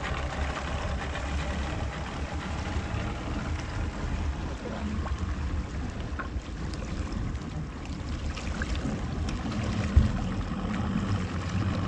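Boat engine idling with a steady low rumble, over water splashing and trickling, with one sharp knock about ten seconds in.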